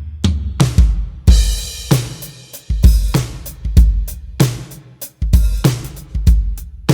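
Pearl e/Merge electronic drum kit played in a groove: bass drum, snare and hi-hat strikes about twice a second, with a crash cymbal a little over a second in.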